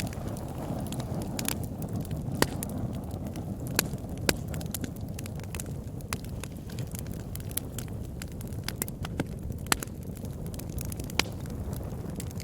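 Wood fire burning in a fireplace: a steady low rumble of flames with irregular crackles and pops, several of them sharp, loud snaps.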